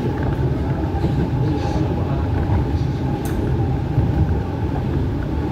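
MTR East Rail Line R-Train electric multiple unit running between stations, heard from on board: a steady rumble of wheels on rail with a faint steady hum above it. There is one brief high squeak about three seconds in.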